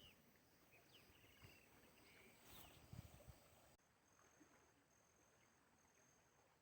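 Near silence: faint outdoor ambience with a few brief high chirps and small knocks. About four seconds in the background drops abruptly, and a faint high tone starts, pulsing on and off at an even pace.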